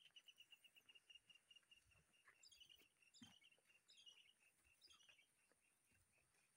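Faint bird song: a fast run of evenly repeated high notes, then four quick trills that each fall in pitch.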